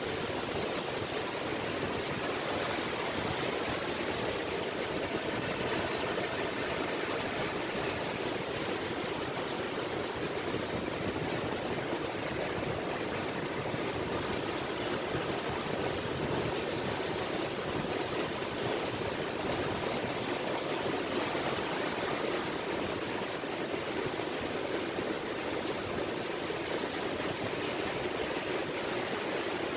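Small, gentle sea waves (sazanami) washing on a beach shore: a steady, even rush of water with no separate breakers standing out.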